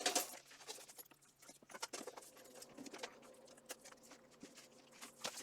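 Steel leg armor being handled and strapped on: faint, scattered clicks and light taps of the metal plates and buckles, with a soft rustle between them.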